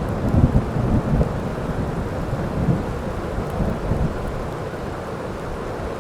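Heavy rain with rolling thunder, the rumble strongest in the first few seconds and dying away toward the end while the rain keeps falling steadily.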